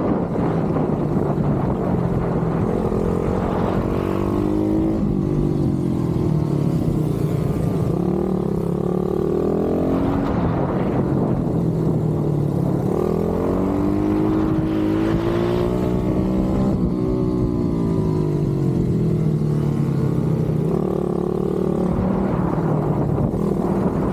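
Pit bike engine revving, its pitch climbing and dropping again and again as the throttle is opened and shut through the race, over a low rushing noise.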